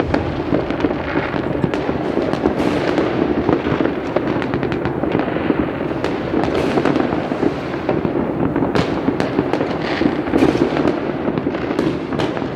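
Dense, continuous crackling and popping of many fireworks and firecrackers going off at once, with sharp bangs scattered through it.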